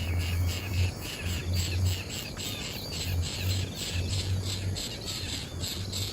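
Small birds chirping in quick, high-pitched calls repeated several times a second, over a low humming drone that comes and goes.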